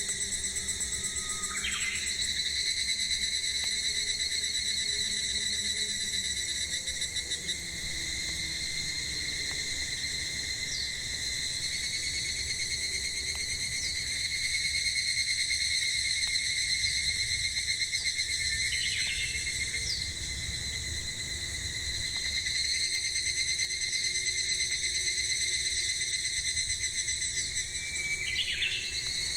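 Cicadas singing in a steady, pulsing drone, with a short bird call three times: near the start, about two-thirds through, and near the end.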